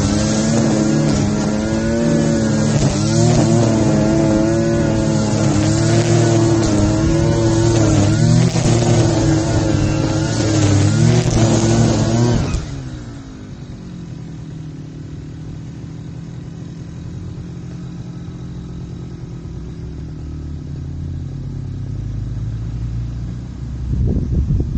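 Small petrol engine of a grass-cutting machine running at full throttle, its pitch wavering as it cuts. About halfway through the throttle is let off and the engine falls to a low idle, then picks up again just before the end.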